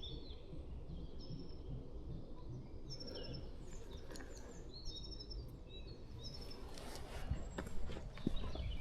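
Several songbirds singing and chirping, short high phrases scattered over a steady low rumble. A few soft sharp knocks near the end.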